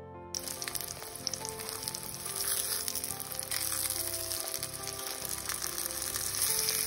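Egg-battered zucchini slices frying in hot oil in a pan: a steady sizzle with crackling pops. It starts about a third of a second in and stops abruptly at the end.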